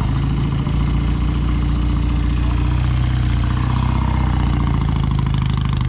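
An engine idling close by, steady and even, its note shifting slightly about halfway through.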